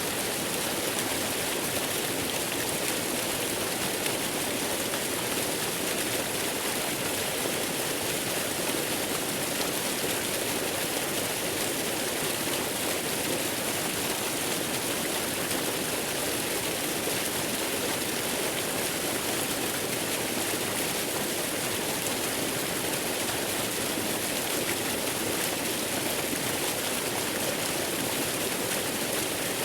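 Waterfall: falling water making a steady, even rushing hiss with no breaks or changes.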